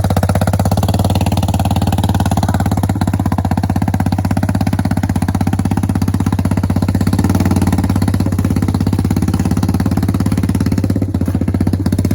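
An engine running steadily at one speed, close by, with an even, fast pulsing beat. It comes up at the start and holds without change.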